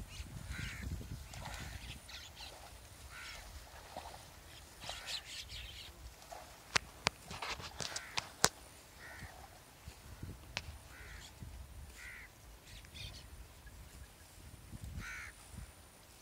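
Birds calling outdoors in short calls every second or two, over a low wind rumble on the microphone. A few sharp clicks about halfway through are the loudest sounds.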